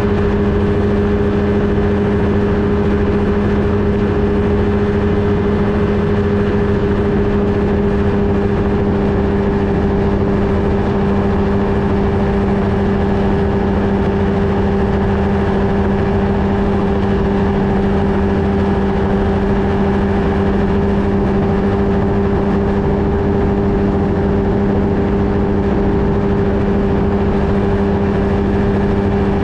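Two-stroke engine of a Flightstar II ultralight running steadily at constant power, heard close up from a camera mounted on the aircraft, with a strong unchanging drone.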